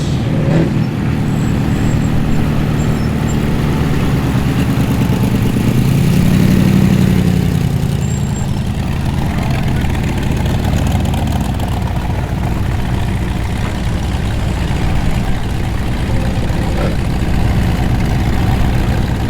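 Hot rod engines idling and rumbling as T-bucket hot rods roll slowly past, one swelling louder about six to seven seconds in.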